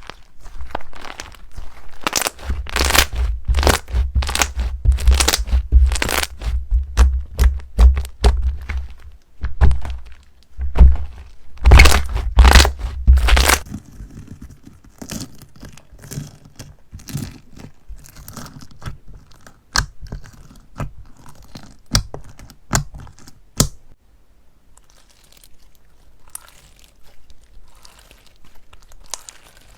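Slime being squished and pressed, with dense crunchy crackling and popping for the first half. It then thins to scattered sharp pops and clicks and turns faint near the end.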